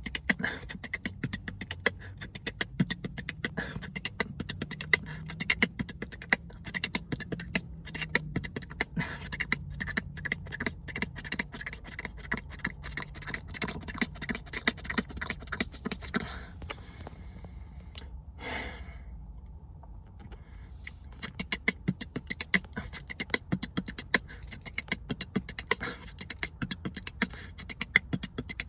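A man beatboxing, drilling fast combos: rapid runs of mouth clicks and percussive strokes, with a low hummed tone under the first several seconds. He breaks off for a few seconds a little past the middle, then starts again.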